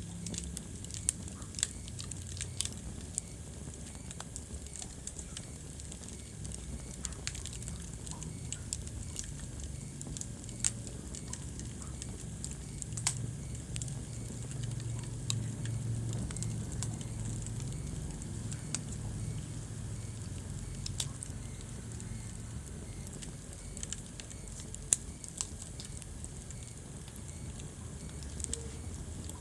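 Wood fire burning in a fireplace: a steady low rumble of flames with scattered crackles and occasional sharper pops.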